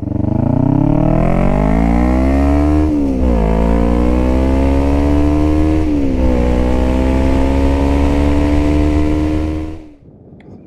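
Yamaha FZ6's inline-four engine pulling hard under acceleration. Its pitch climbs, drops sharply at two upshifts about three and six seconds in, then climbs more gently in the higher gear. The sound cuts off suddenly near the end.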